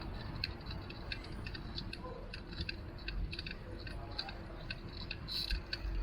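Bicycle ticking and clicking lightly as it rolls, in quick irregular clicks over a low road rumble.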